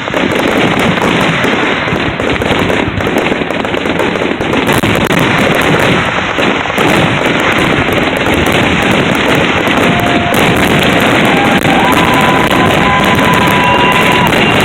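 Fireworks display going off in a dense, continuous barrage of booms and crackling. A few steady high tones join in during the last few seconds.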